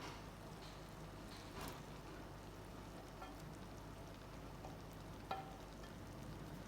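Food sizzling gently in a cooking pot, a steady crackle with a few light clicks, the sharpest about five seconds in.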